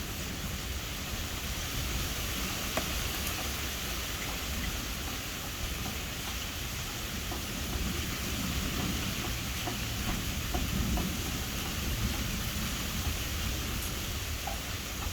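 Steady rain falling, with a low rumble of distant thunder underneath and small scattered drop ticks.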